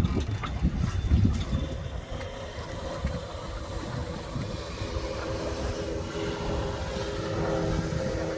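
Motorboat engine running steadily, with wind buffeting the microphone; the buffeting is heaviest in the first second or two.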